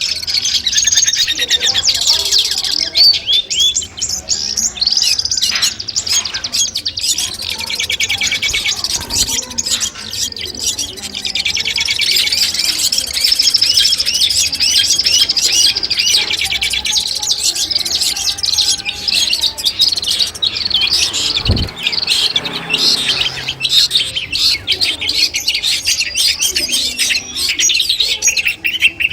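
Long-tailed shrike (cendet) singing a continuous, rapid chattering song of many quick, high notes and short glides.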